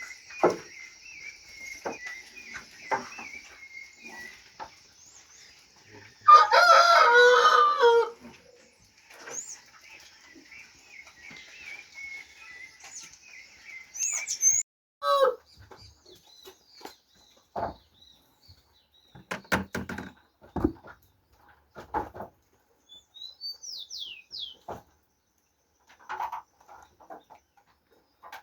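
A rooster crows once, loud and about two seconds long, some six seconds in, over a steady high-pitched chirring. Later come scattered knocks and clicks and a few short high bird chirps.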